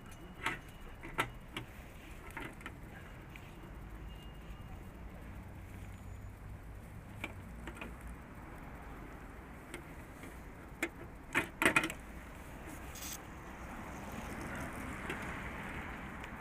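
Scattered metal clicks and clinks of rope-access climbing gear being handled, with the loudest quick cluster about two-thirds of the way through, over a steady low hum; a hiss swells near the end.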